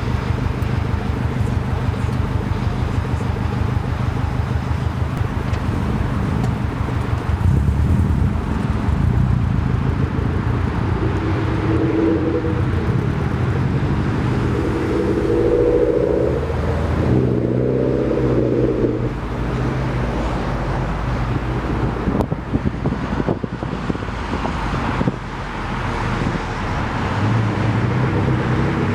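Subaru STi's turbocharged flat-four engine running as the car drives, its pitch rising and falling with the revs through the middle of the stretch.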